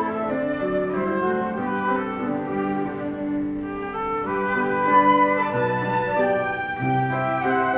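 Live instrumental ensemble music: a melody over held chords, with notes changing about once a second.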